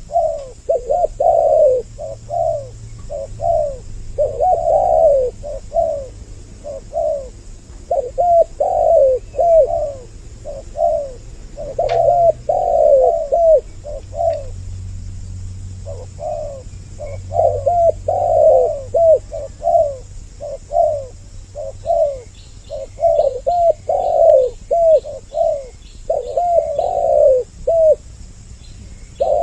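Spotted doves (tekukur) cooing over and over in a lure recording, two birds' calls overlapping, with a short lull about halfway through.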